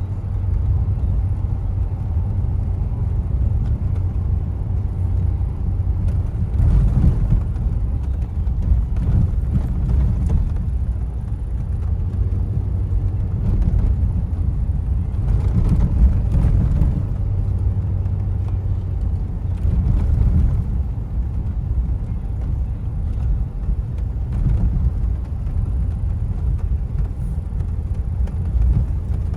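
Car driving on a bumpy paved road: a steady low rumble of tyres and engine, with a few louder jolts.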